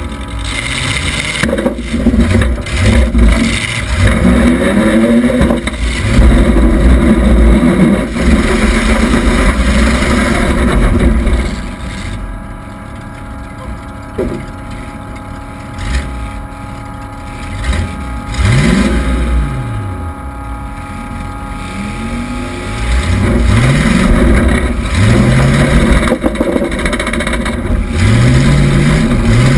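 1976 Oldsmobile Cutlass Supreme demolition-derby car's engine running loud and revving up and down over and over, its pitch rising and falling with each rev. Several knocks and bangs come in the first few seconds.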